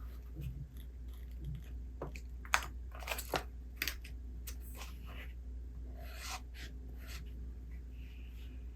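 Small handling noises of someone reading a book: a run of light clicks and taps a couple of seconds in, then a short papery rustle like a page being turned, over a steady low hum.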